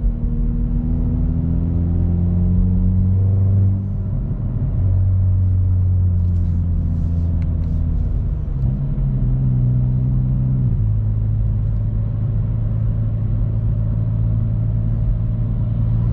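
Hyundai i30 N's 2.0-litre turbocharged four-cylinder engine and exhaust droning at a steady low-rpm cruise. The engine note climbs a little and drops back a couple of times, about four seconds in and again around nine to eleven seconds.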